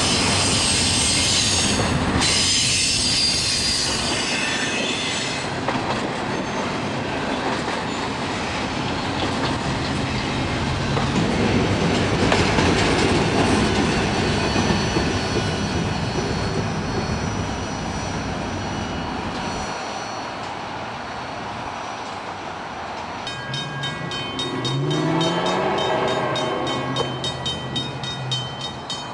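Freight trains passing. First, a double-stack intermodal train's wheels squeal on a curve. Then comes the steady rumble and clatter of rail cars rolling by. Near the end, an approaching diesel locomotive sounds its air horn, rising in pitch as it comes on, over a fast, regular ringing.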